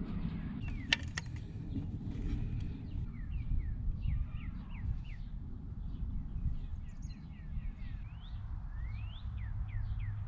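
A bird singing a quick series of short chirps that sweep down and up in pitch, over a steady low outdoor rumble. Two sharp clicks about a second in.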